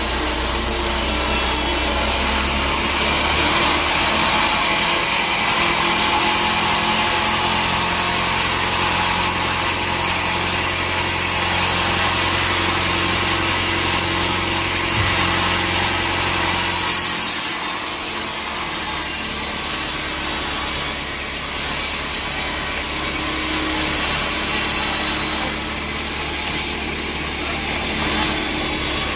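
Sawmill saw running and cutting through a teak log, a steady machine drone with the rasp of the blade in the wood. The low hum of the drive dips briefly a little past halfway, then carries on.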